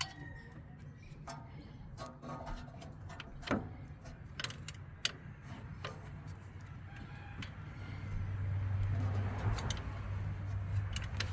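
Scattered light metallic clicks and knocks of hand tools and small engine-bay parts being handled. Faint bird calls sound early on, and a car's low hum swells in about two-thirds of the way through.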